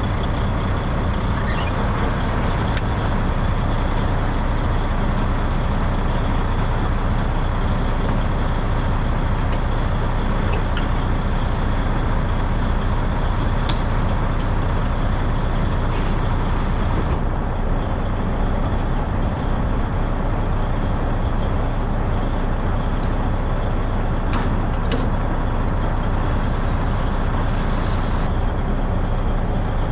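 Semi truck's diesel engine running, a constant low drone with a few faint clicks.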